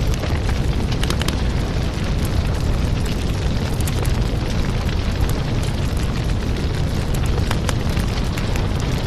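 Fireplace fire burning with a steady low roar and scattered crackles and pops of the burning wood.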